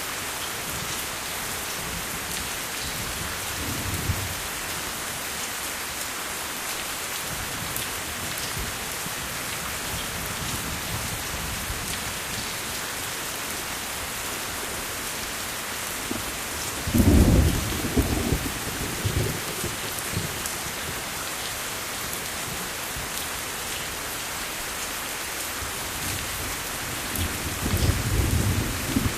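Steady rain falling, with rolls of thunder rumbling low beneath it: a faint one about four seconds in, a louder, longer one that peaks and rolls on for a couple of seconds past the middle, and another near the end.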